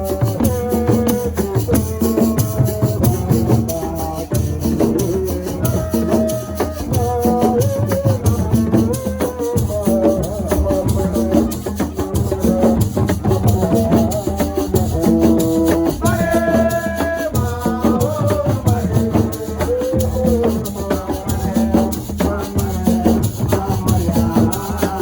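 Senegalese assiko music: shakers rattling a fast, steady rhythm over drums, with a pitched melodic line, likely a voice, moving over the top.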